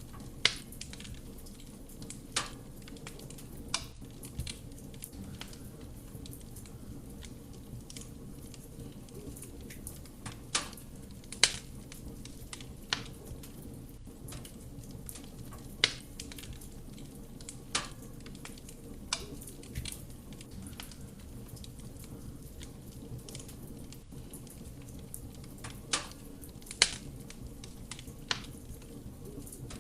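Wood fire burning in a fireplace: a steady low rumble of flame with sharp, irregular pops and crackles of burning wood every second or few.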